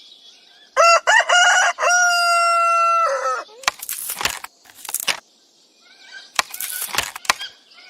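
Rooster crowing once: a stuttering start, then a long held note that drops away at the end. After it come four short, rushing noisy bursts.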